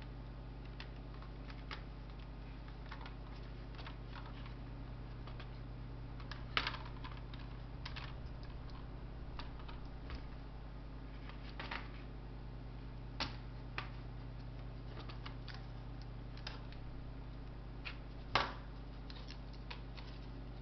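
Scattered light clicks and taps of laptop parts being handled during disassembly, a few sharper knocks among them, the loudest near the end, over a steady electrical hum.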